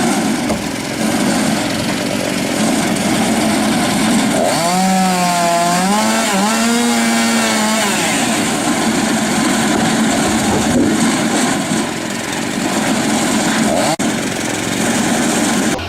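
Chainsaw engine running at high revs, its pitch wavering down and up for a few seconds in the middle, with a brief break near the end.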